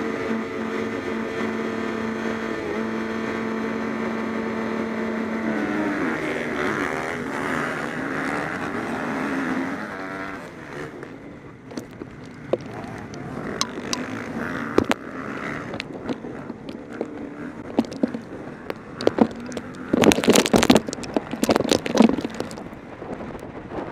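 A pack of motocross bikes holds steady revs, then about five seconds in they accelerate away, their engine notes rising and falling and fading over the next few seconds. Near the end, loud gusts of wind buffet the microphone.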